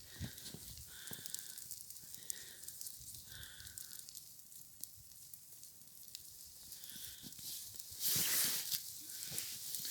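Burning dry reeds crackling and hissing faintly, with a louder rushing hiss about eight seconds in.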